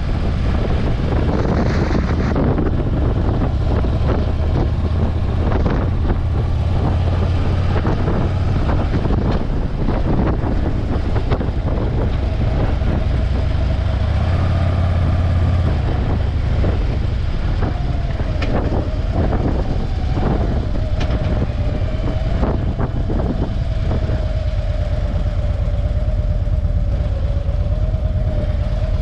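Motorcycle riding at road speed: a steady low rumble of engine and wind, with a thin steady whine joining about halfway through.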